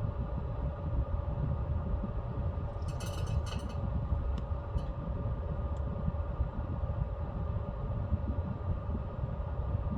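Pellet stove running with a steady fan hum over a low rumble. About three seconds in comes a brief clatter of sharp clicks, followed by a few single ticks.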